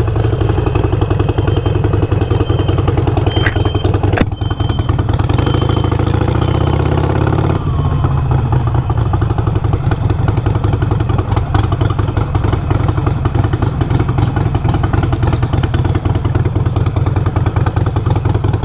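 Harley-Davidson Iron 883's V-twin engine running steadily at low speed, its note changing about seven and a half seconds in, with a sharp knock about four seconds in.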